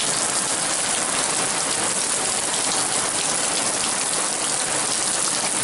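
Heavy rain pouring steadily on the surfaces around the house, a dense even patter of drops.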